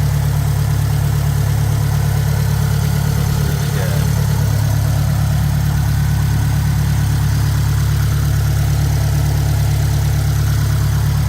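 Built 2017 Subaru WRX STI's turbocharged flat-four engine idling steadily through an aftermarket cat-back exhaust, with no revving.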